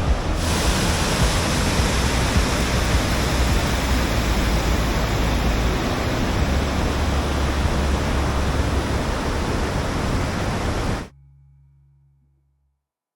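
Waterfall, loud steady rushing of falling water, which cuts off abruptly about eleven seconds in, leaving a faint low hum that fades away.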